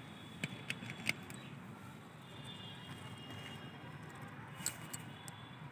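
Faint steady background noise, with a few sharp clicks about half a second to a second in and a couple more near the end.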